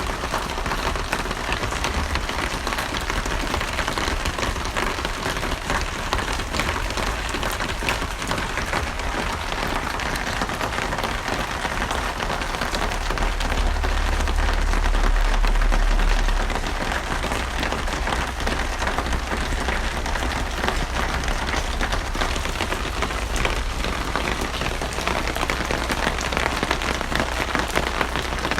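Steady heavy rain with many fine drops pattering on a surface. A low rumble swells for a few seconds near the middle, then settles back.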